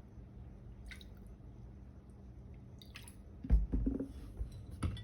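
Kitchen handling sounds while a sauce is measured: a light click about a second in, then a thump and a few shorter knocks and rustles near the end, as bottles and a spoon are handled on the counter.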